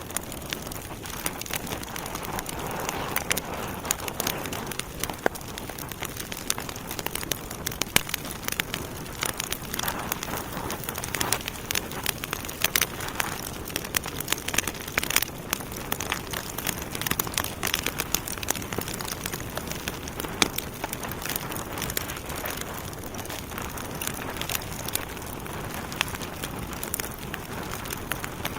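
Wood fire in a fireplace burning steadily, logs crackling and popping in dense, irregular snaps over a soft hiss.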